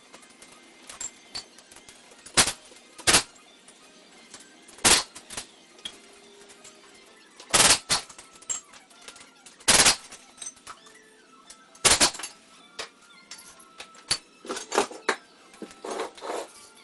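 Irregular sharp metal clanks and knocks of hand tools and parts being handled while taking apart an engine and transmission to reach the clutch, some coming in quick pairs.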